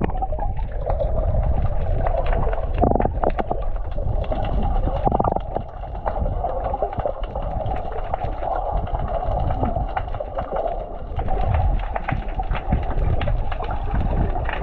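Muffled underwater sound from a camera held under the sea: a steady low rumble of moving water with faint crackling clicks, and the high end cut off.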